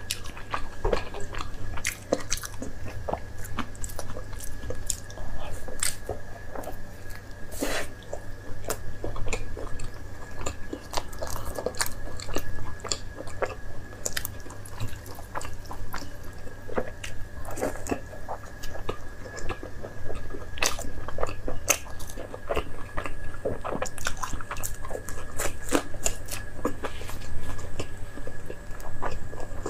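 A person biting and chewing food close to the microphone: many short, wet clicks and smacks one after another, over a faint steady high tone and a low hum.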